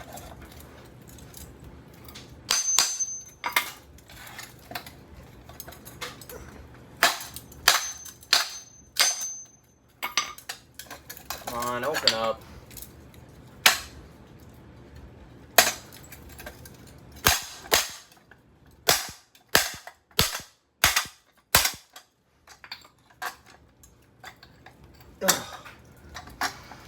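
Repeated hard blows on the metal housing of a Craftmade ceiling fan motor as it is being smashed open: a couple of dozen sharp impacts at irregular intervals, a few leaving a short high metallic ring.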